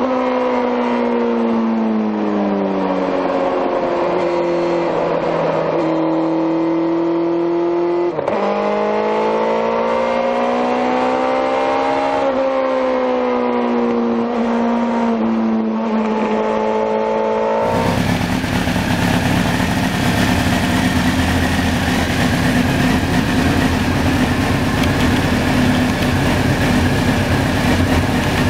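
Honda CBR900's inline-four engine and exhaust, its pitch sliding down and then climbing again with the revs, broken once about eight seconds in. About eighteen seconds in, the sound cuts to a steadier engine drone under heavy rushing noise, as if riding at speed.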